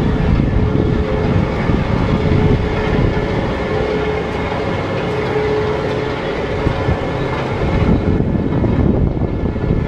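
Inverted steel roller coaster train running on its track, a steady rattling rumble with a faint humming tone, heard from the front row of the train.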